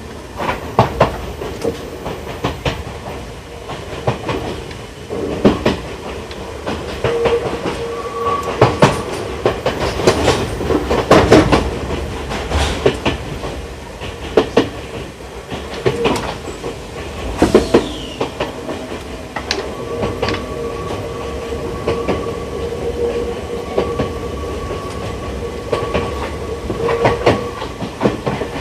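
Enoshima Electric Railway 1000-series resistance-controlled electric railcar running, heard from inside the car. The wheels clack at irregular intervals over a steady rumble, and a steady tone sounds under it at times, longest in the second half.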